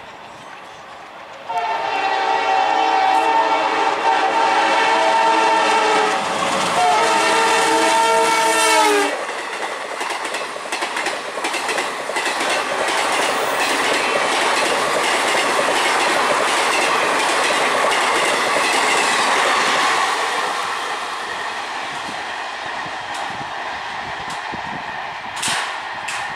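Diesel passenger train passing at speed. The locomotive's multi-note horn sounds for about seven seconds with a short break and drops in pitch as it goes by. Then the coaches rush past with a steady clatter of wheels over rail joints, which fades as the train draws away.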